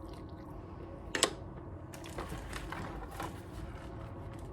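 Close-miked chewing: wet mouth clicks and small crunches at an uneven pace, with one sharper click about a second in.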